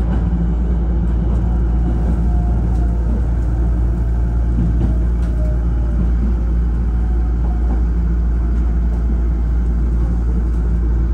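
Steady running noise inside a Hankyu electric train car: a low rumble of wheels on rail with a faint wavering tone above it.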